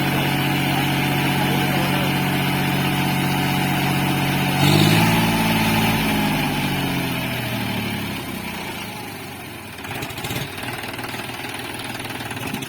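John Deere tractor engine running steadily, then revving up about five seconds in, with the pitch sinking slowly over the following few seconds as the revs fall away.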